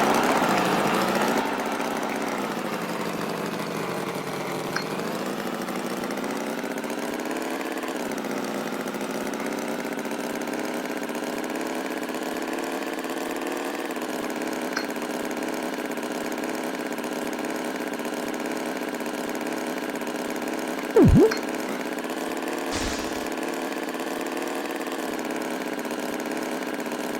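Cartoon tractor engine idling steadily, dipping briefly in pitch twice in the first several seconds. A short, loud sound cuts in about three-quarters of the way through.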